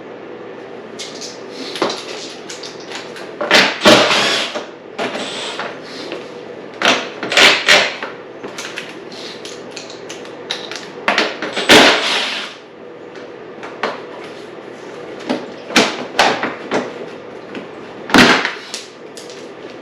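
Irregular clunks, knocks and rattles of hard plastic and metal parts being handled, as the seat and plastic bodywork come off a Honda CRF450R dirt bike; the loudest knocks fall about four, seven and a half, twelve and eighteen seconds in.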